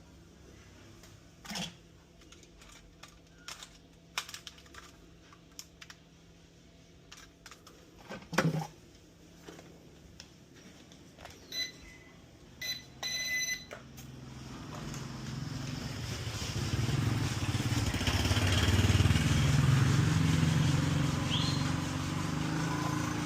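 Handling clicks and a few short electronic beeps, then a small RC aircraft's electric motors and rotors spinning up, rising to a steady whirring hum in the second half.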